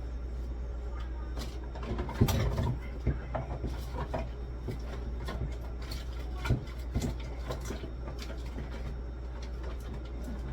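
Scattered clicks, knocks and a clatter of containers and packages being handled and set down while a fridge is restocked, the loudest about two seconds in, over a steady low hum.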